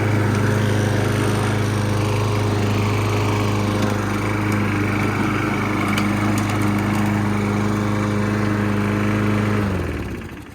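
Toro Recycler push mower's Briggs & Stratton Quantum engine running steadily at one speed. It shuts off near the end and winds down quickly to a stop.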